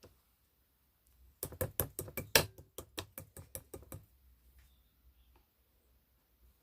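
A quick, uneven run of about fifteen sharp clicks or taps lasting a little over two seconds, starting about a second and a half in, followed by a few faint ticks.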